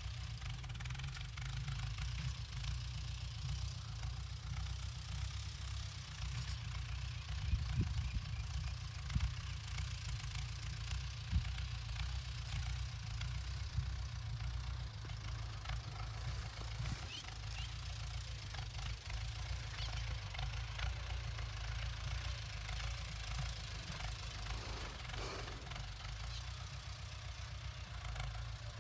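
Ford 6600 tractor's three-cylinder diesel engine running steadily while plowing, with a few short sharp clanks in the first half.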